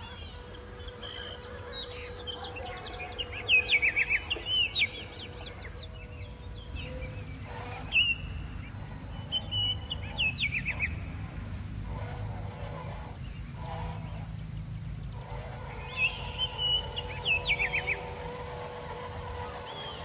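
Small birds chirping in several bursts of quick, repeated downward-sweeping notes, over a steady low rumble.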